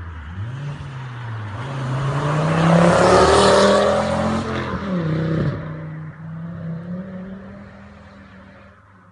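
Ford Focus ST225's turbocharged 2.5-litre five-cylinder engine, running through a decat exhaust, accelerating past. The engine note rises and gets loud about three seconds in, drops in pitch around five seconds in as the car goes by, then fades away.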